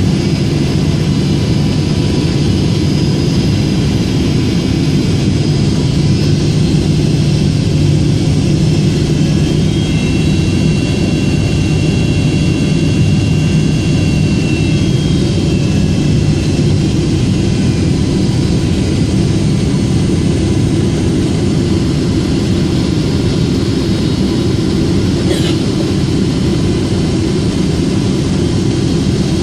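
Cabin noise of a Boeing 777-200ER airliner on final approach: a steady, deep jet-engine and airflow rush with faint high engine whine tones over it. There is one faint click near the end.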